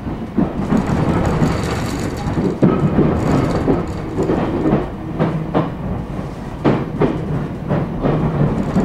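Interior running sound of an ET127 series electric train with Toyo GTO-VVVF traction, moving at low speed: a steady low rumble under irregular sharp knocks of the wheels going over rail joints and points.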